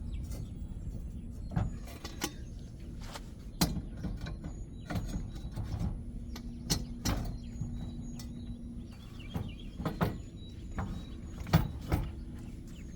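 Irregular metal clanks and knocks as a steel trailer-hitch extender and rack are handled and fitted into a truck's hitch receiver, over a steady low rumble.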